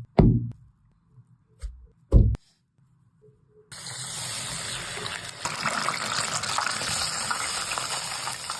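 Two loud low thuds in the first two seconds or so, then a water tap is turned on about three and a half seconds in and runs steadily.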